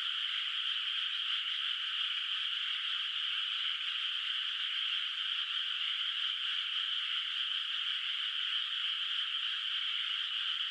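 A chorus of many frogs calling together in a flooded rice paddy, steady and unbroken, high and dense with no single call standing out.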